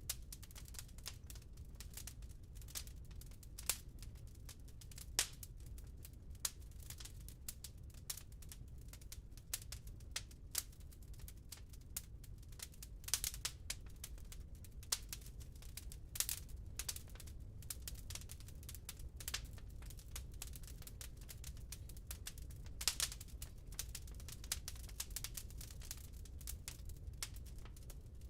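Wood fire burning in a fireplace, crackling and popping irregularly, with small clusters of sharper pops, over a faint low rumble of the flames.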